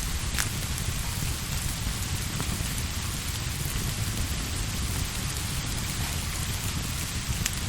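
Steady rain falling, an even hiss with a low rumble beneath it. A few single sharp crackles from a log fire stand out, one about half a second in and another near the end.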